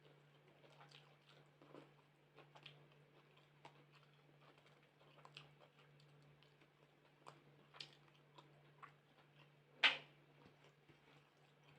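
Close-up chewing and wet mouth sounds of someone eating rice and chicken curry, with scattered small clicks and one sharper, louder click about ten seconds in. A faint steady hum runs underneath.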